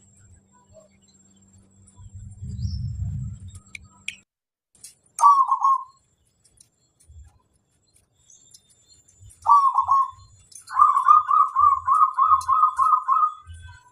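Zebra dove (perkutut) cooing: one short call about five seconds in, another near ten seconds, then a quick rolling run of about ten coos near the end. A low rumble comes first, about two to four seconds in.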